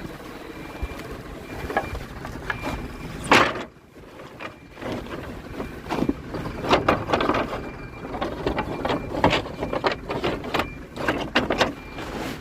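Woodworking shop noise: irregular knocks and scrapes of wood and machinery, the loudest a sharp bang about three seconds in, then a busier run of clattering over a faint steady whine.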